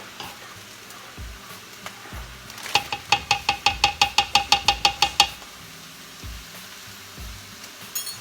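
A metal utensil stirring sauce in a pan, clinking against the pan's side in a quick, even run of about fourteen ringing knocks that lasts about two and a half seconds.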